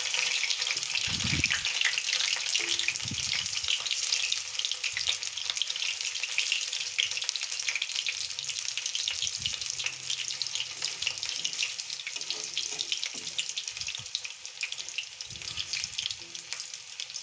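Battered cauliflower pakoras deep-frying in hot oil in a kadai: a steady, dense crackling sizzle.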